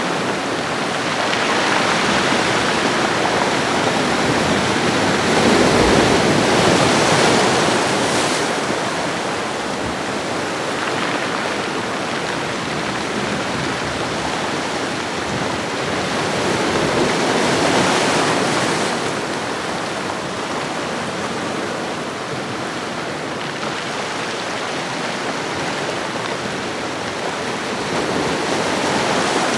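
Ocean waves washing on a shore: a steady hiss of surf that swells and eases slowly, with fuller surges about six seconds in, around eighteen seconds, and near the end.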